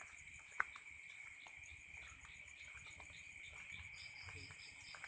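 Night insect chorus of crickets trilling steadily in two high, unbroken tones. A faint pulsing call joins in near the end, and there is a single sharp click about half a second in.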